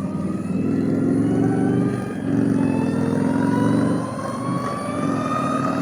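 Harley-Davidson LiveWire electric motorcycle accelerating gently, its motor whine rising slowly and steadily in pitch, over a loud rush of wind and road noise.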